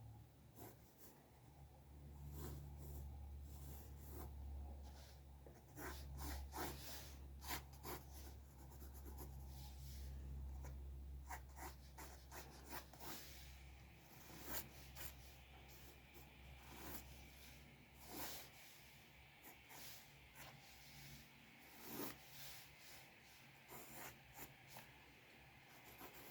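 Drawing on paper: short, irregular scratching and rubbing strokes of a sketching tool, with a faint low hum that fades out about halfway through.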